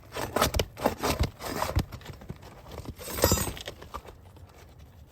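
Old asphalt shingle and the roofing underlayment stuck to it being pried and torn loose by hand. A quick run of sharp crackles and scrapes, then a louder tearing rasp about three seconds in.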